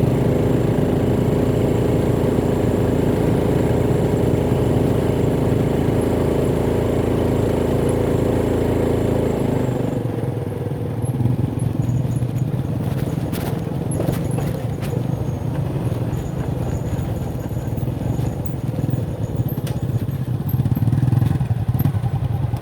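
Motorcycle engine running steadily under throttle, then easing off about ten seconds in to a lower, uneven run. A few sharp knocks and rattles follow as the bike rides over rough ground.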